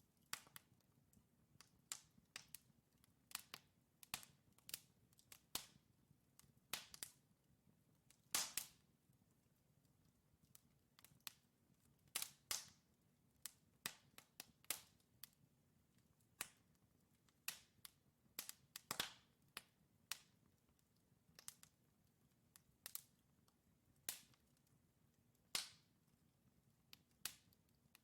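Wood fire crackling in a fireplace: burning logs giving off sharp, irregular pops and snaps, a few each second, over a faint low rumble of the flames.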